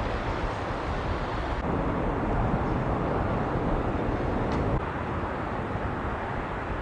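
Strong wind blowing, a dense rushing noise with deep rumbling, with abrupt changes in level about one and a half seconds in and again near the five-second mark.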